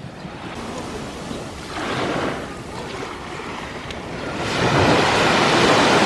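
Sea waves washing onto the beach: one swell about two seconds in, then a louder wave that comes in about four and a half seconds in and keeps on.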